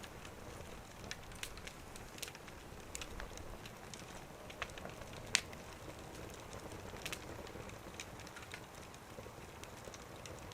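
Wood fire crackling, with scattered sharp pops over a soft low hiss of burning; the loudest pop comes about five seconds in.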